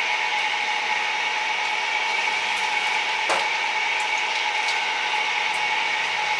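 Steady mechanical whirring with a few faint clicks and one knock about three seconds in.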